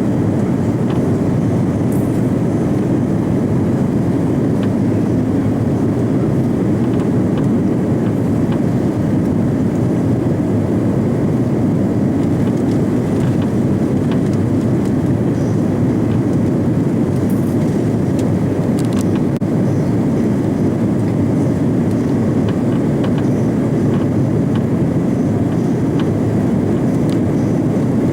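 Steady rumble of an Airbus A340-300 heard from inside the passenger cabin: the four CFM56 engines and airflow running at an even, unchanging level, with a few faint ticks from the cabin.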